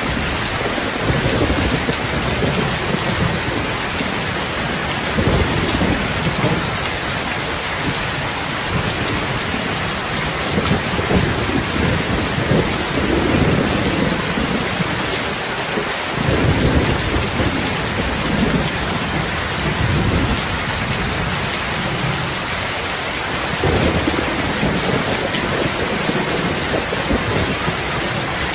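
Heavy rain falling steadily, with low thunder rolling and rumbling in several swells.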